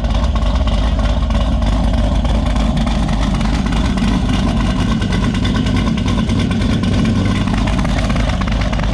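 Supercharged Chevrolet Caprice PPV engine running at a steady idle, breathing through an exhaust stuffed with birthday-party whistles.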